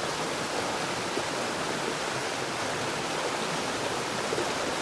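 Steady rushing water ambience with no change in level: the background bed laid under the affirmations.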